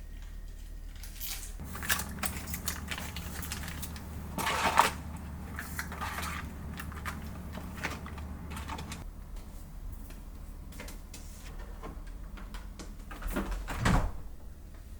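Household objects being handled: a run of light clicks and knocks over a low hum, with louder clatters about five seconds in and near the end.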